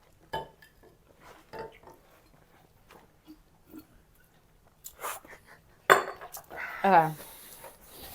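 Cutlery clinking and tapping against a plate while a s'mores cookie is cut apart, in scattered light clicks with one sharper knock about six seconds in.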